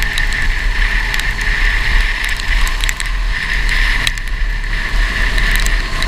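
Go-kart running on a wet track: a steady engine drone with heavy low wind rumble on the microphone and scattered small clicks.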